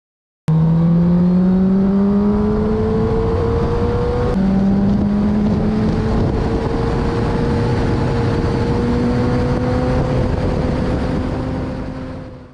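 Sport motorcycle engine accelerating hard, its pitch rising, then dropping suddenly at an upshift about four seconds in and climbing steadily again in the higher gear. It cuts in abruptly and fades out near the end.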